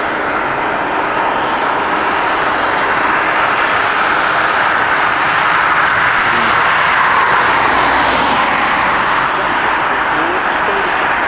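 Jet airliner's engines passing close by: a steady, dense jet roar that swells to its loudest about seven to eight seconds in, then eases slightly.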